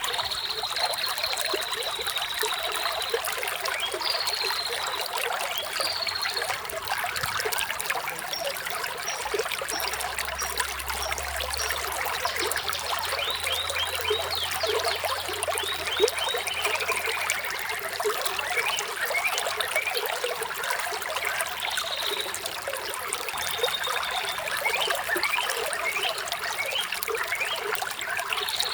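Water flowing and trickling steadily, with birds chirping over it: a long high call at the start and again at the very end, and scattered short chirps throughout.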